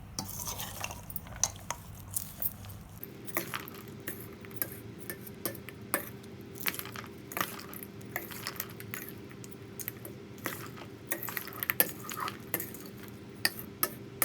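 A spoon stirring in a metal vessel of rice, with irregular clinks and scrapes against the sides: the cooked rice being mixed with the lemon tempering. A faint steady hum starts a few seconds in.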